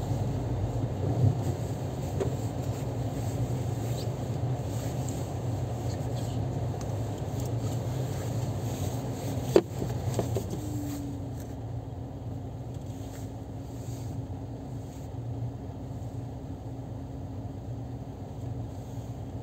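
A car engine idling steadily. About halfway through there is a sharp click, then a steady hum sets in and the engine noise becomes a little quieter.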